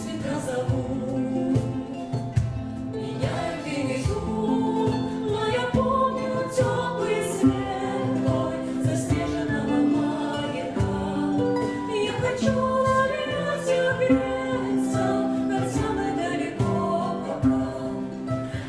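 Live song performance: singing voices over instrumental accompaniment, with long held notes.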